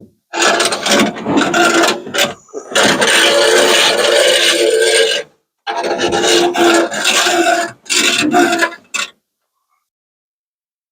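A 1950 Ford F1 door window glass rubbing and scraping in its run channel as it is worked up and down, in four long strokes, then cutting off suddenly about nine seconds in.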